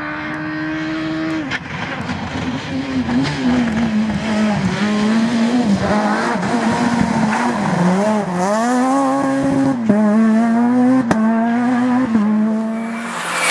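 Rally car engine at high revs, pitch rising and dipping over and over as the driver works the throttle and gears, with a sudden drop about one and a half seconds in and a few sharp cracks along the way.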